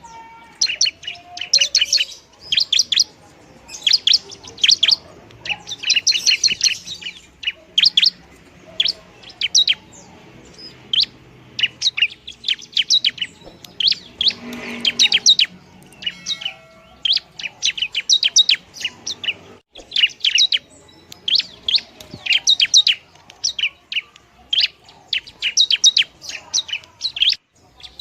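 Long-tailed shrike (pentet) singing: quick clusters of sharp, high chirping notes separated by brief pauses.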